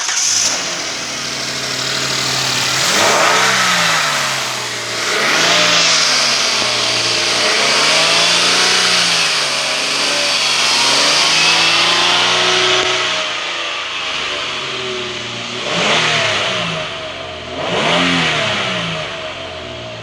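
2008 Kia Grand Carnival's 3.8-litre V6 engine running on test, revved up and let fall back to idle several times, then blipped sharply twice near the end. The engine is rated as tested good.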